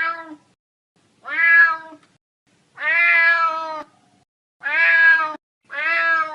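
Domestic cat meowing repeatedly: about five separate meows in quick succession, the one near the middle held longest.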